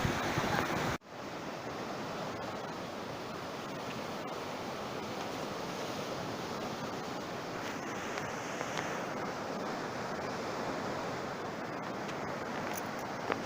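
Sea waves and surf washing on the shore in a steady hiss. It is louder for about the first second, then drops suddenly to a quieter, even wash.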